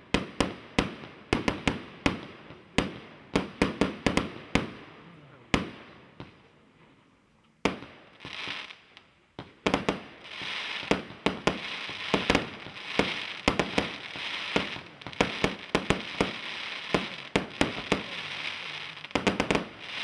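A 60-shot, 1-inch consumer fireworks cake firing: a rapid string of sharp launch and burst reports, about two or three a second, with a short lull about six seconds in. From about ten seconds in, a steady crackle from crackling stars runs under the shots.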